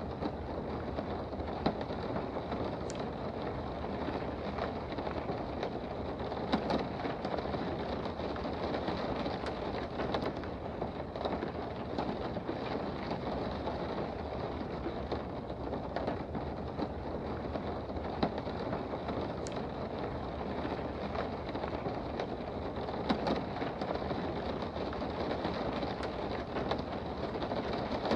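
Steady rain heard from indoors, a continuous even patter with scattered sharper taps of individual drops.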